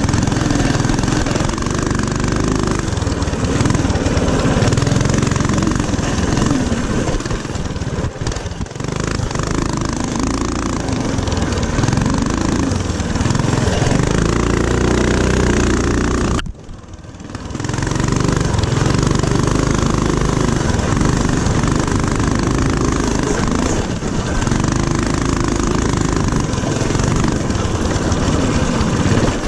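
Small single-cylinder four-stroke mini-bike engine running hard around a dirt track, rising and falling in pitch as the throttle works. The sound drops away sharply for about a second just past halfway, then picks back up.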